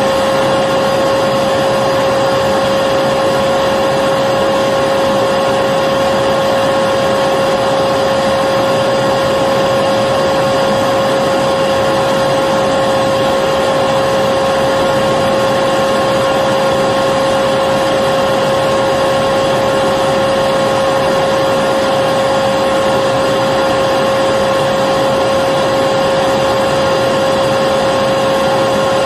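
Electric vacuum cleaner running steadily: a constant motor whine over an even rush of air.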